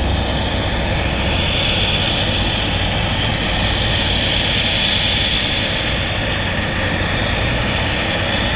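Boeing 787 jet airliner's engines: a steady loud rush of jet noise with a high hiss that swells about halfway through, over a low rumble.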